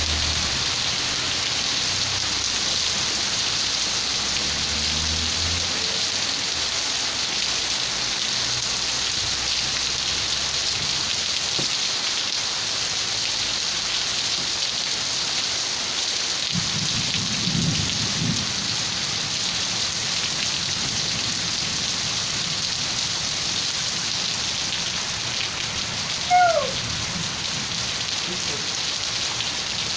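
Steady heavy rain falling, an even hiss, with a low rumble of distant thunder in the first few seconds and again a little past halfway. Near the end a short falling chirp briefly rises above the rain.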